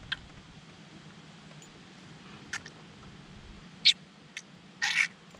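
A just-caught fish held out of the water making short sucking noises: a few brief squeaky sounds, the loudest two about four and five seconds in.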